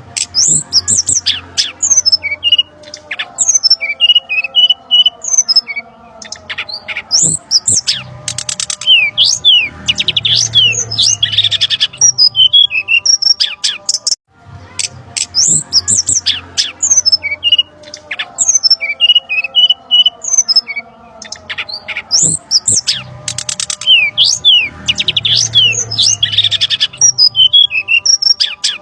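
Looped bird-lure recording of brown-chested jungle flycatcher calls: a busy run of sharp chirps, squawks and quick whistled trills. The same stretch of about fourteen seconds plays twice.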